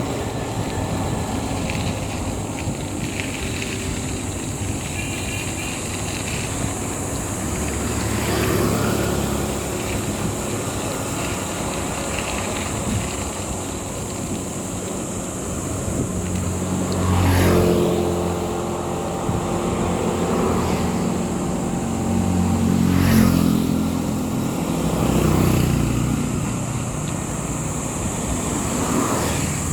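Motor vehicle engines and road noise running throughout, swelling louder several times as engines rev or pass, most strongly a little past halfway and again a few seconds later.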